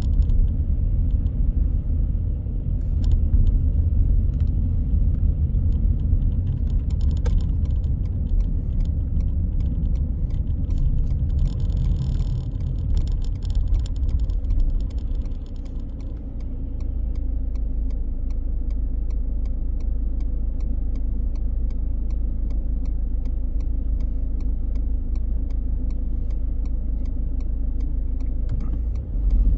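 Car driving, heard from inside the cabin: a steady low rumble of engine and tyres on the road, with a brief rushing hiss about halfway through. It then settles into a quieter, steadier hum.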